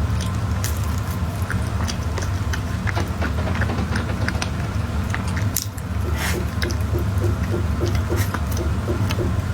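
Close-miked chewing of soft cake: many small wet clicks and squishes of mouth and food. Under it runs a steady low hum.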